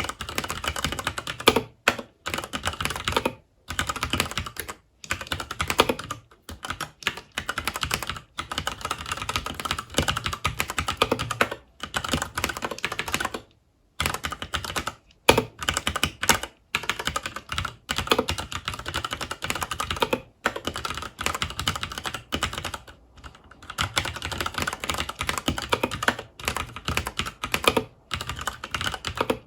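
Typing on a FILCO Majestouch 2 Hakua tenkeyless mechanical keyboard with Cherry MX Brown switches: fast, continuous keystroke clatter, broken by a few brief pauses, the longest about halfway through.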